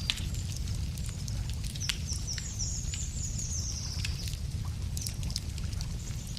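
Wood fire crackling, with scattered sharp pops over a steady low rumble. About two seconds in, a songbird sings a quick run of high, short falling notes lasting about a second and a half.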